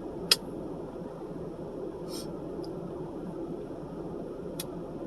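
Steady low background noise with a sharp click about a third of a second in, a softer brief rustle around two seconds, and another click near the end.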